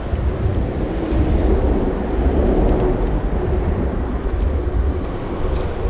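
A passing train rumbling, louder around the middle, over wind buffeting the microphone.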